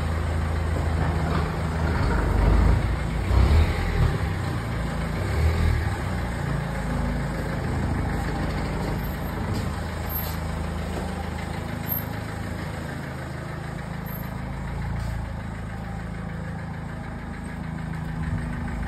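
Small hatchback car's engine running at idle or low speed, a steady low hum close by.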